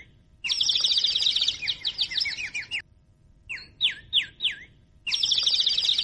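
Songbird singing in a repeating cycle: a fast run of chirps and trills lasting about two seconds, a short pause, then three clear falling whistles, and the chirping run starts again near the end.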